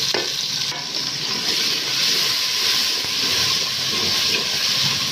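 Chopped tomatoes and green chillies hitting hot ghee and browned onions in an aluminium pot, setting off a loud, steady sizzling hiss.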